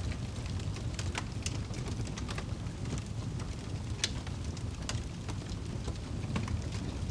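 Wood fire burning in a fireplace, crackling with frequent irregular sharp pops over a low steady rumble of the flames; one pop about four seconds in is the loudest.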